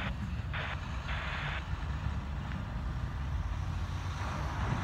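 Freight train rolling past, a steady low rumble with wind noise on the microphone, cut off abruptly at the end.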